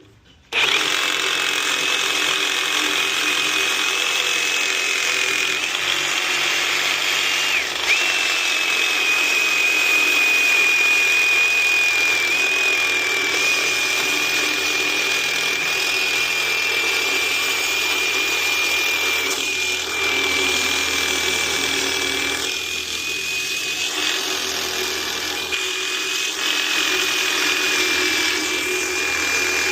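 Power saw cutting through the copper in a pool spa heater, starting about half a second in and running on steadily with a high whine that sags briefly a few times as the blade loads up in the metal.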